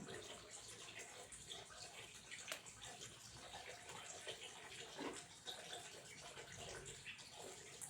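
Faint water flowing and splashing steadily indoors, with small irregular plops and drips.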